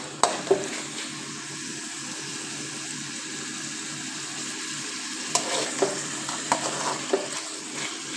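Chicken, tomato and capsicum filling sizzling in oil in a pan while a metal spoon stirs it. The spoon scrapes and knocks against the pan a couple of times just after the start and several times past the middle.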